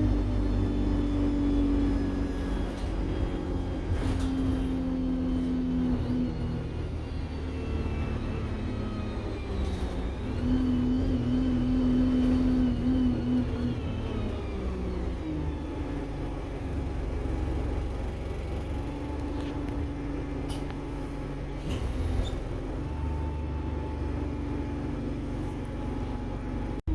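Alexander Dennis Enviro 200 single-deck bus's diesel engine running under way, its pitch shifting with engine speed, with a high turbocharger whine that rises and falls. A few short sharp clicks and knocks come through along the way.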